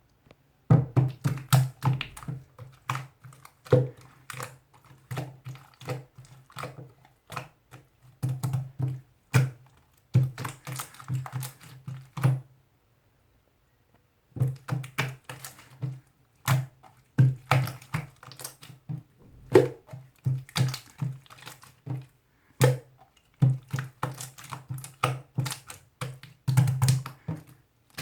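Irregular run of sharp clicks and taps, several a second, with a pause about twelve seconds in; a low hum sounds along with each cluster.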